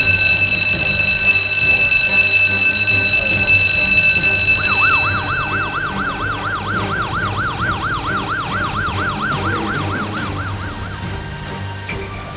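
A loud, steady electronic alarm tone sounds for about five seconds. A fast up-and-down fire engine siren then takes over, sweeping about four times a second, and fades near the end.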